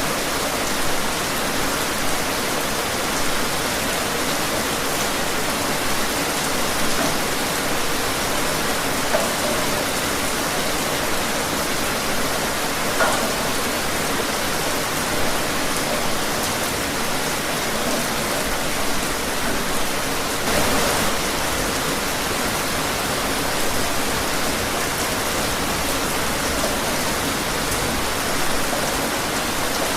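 Steady rain falling, with the hiss of the downpour and occasional louder drops or splashes.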